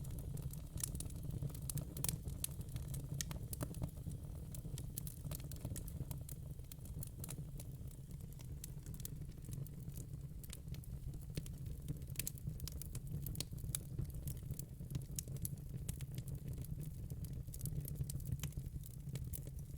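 Wood fire in a fire pit crackling, with irregular sharp pops and snaps of burning logs over a steady low rumble.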